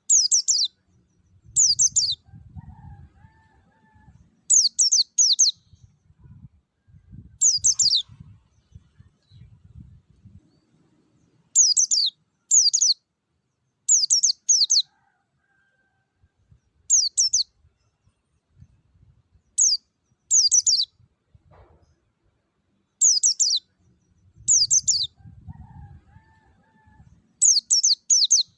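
Pleci (white-eye, Zosterops) singing its ngalas-style song: short, high, quickly falling chirp phrases, mostly in pairs about a second apart, repeated every two to three seconds.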